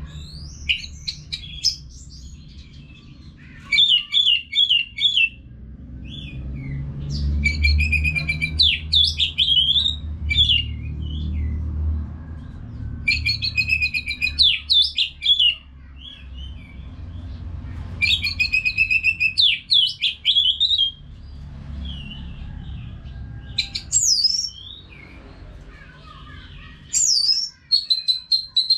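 Orange-headed thrush in full song: bouts of loud, rapid, varied whistled phrases and quick trills, about seven in all with short pauses between them. A low rumble runs underneath.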